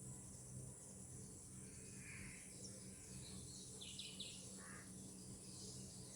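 Faint natural ambience: a steady high insect buzz, with a few short bird chirps about two seconds and four seconds in.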